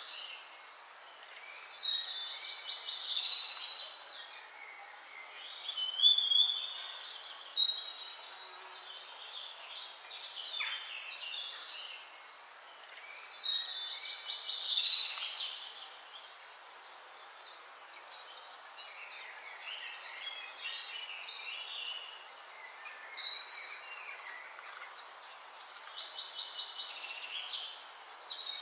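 Songbirds singing: bursts of fast, high chirping phrases lasting a second or two, repeated every few seconds, with quieter calls and a faint hiss between them.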